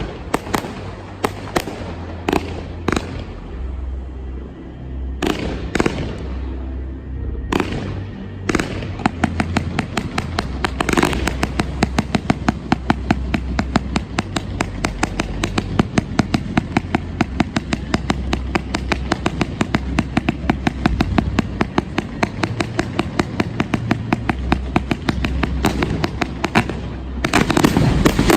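Fireworks going off: a few separate bangs with crackling hiss between them, then a long rapid string of sharp cracks and reports, and a heavier burst of bangs near the end. Music plays underneath.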